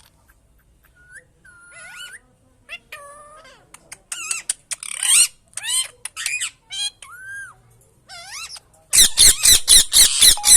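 Pet parrot calling: gliding whistles and harsh squawks, ending in a rapid run of loud, sharp sounds.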